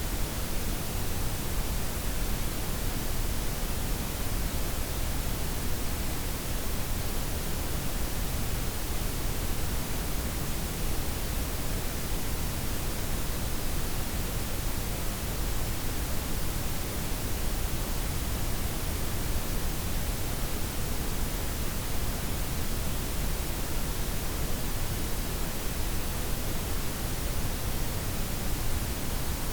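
Steady synthetic noise: a blend of white, pink and brown noise with its highs softened, an even hiss over a deeper rumble-like bed that does not change.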